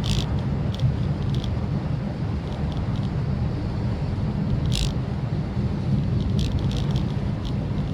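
Maruti Suzuki Swift Dzire driving, with a steady low road and engine rumble. Scattered sharp ticks of raindrops striking the car come at irregular intervals.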